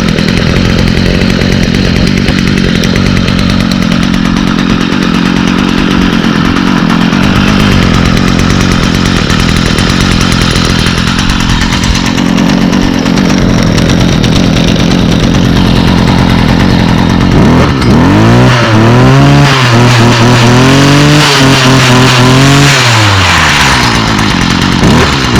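2011 Stihl FS45 string trimmer's 27cc two-stroke engine idling steadily after a cold start, then revved up about two-thirds of the way in, held at high speed for a few seconds and let back down to idle, with a short blip of throttle near the end. It runs well.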